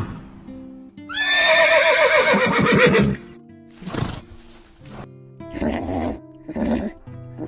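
A horse whinnying: one long call about a second in, its pitch falling and quavering, then a short sharp burst and two shorter calls near the end, over background music.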